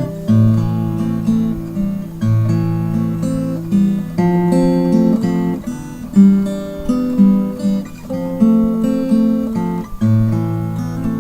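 Acoustic guitar music: plucked and strummed chords over a steady bass line.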